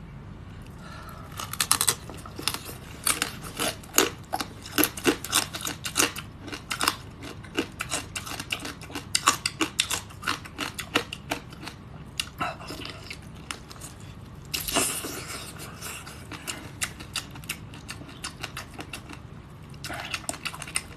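A person eating seafood close to the microphone: chewing and crunching with a dense run of sharp clicks and crackles, and a longer crackling burst about fifteen seconds in.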